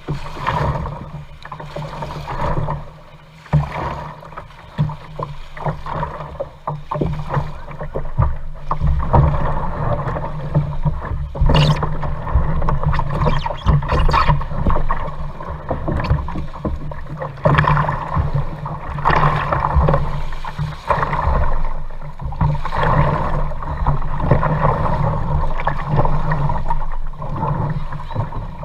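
Kayak being paddled: paddle blades dipping and splashing in the water, in irregular swells, over a steady low rumble.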